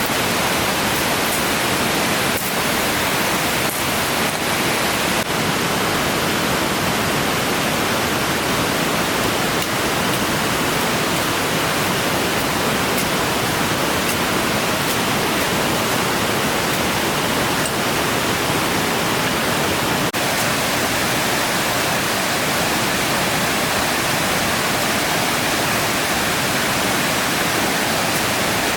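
A waterfall's steady rush of falling water, with a few faint clicks over it.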